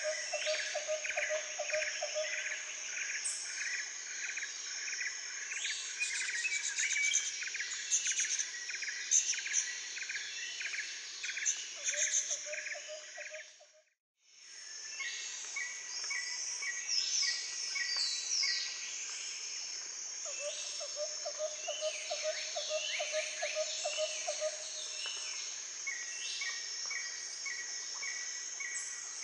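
Chorus of birds chirping and insects trilling, with steady repeated chirps and a lower pulsing trill that comes and goes. Midway the sound fades out to silence and fades back in.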